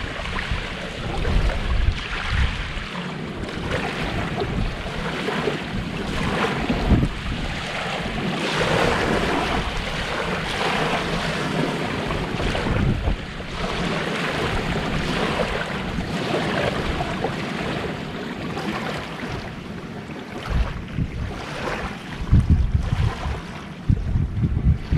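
Gentle sea waves washing onto the shore, swelling and ebbing, with wind buffeting the microphone in low rumbling gusts, strongest near the end.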